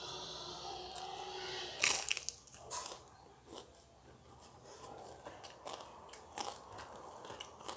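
Close-up eating of crisp, flaky flatbread: one loud crunching bite about two seconds in, then crunchy chewing with scattered small crackles.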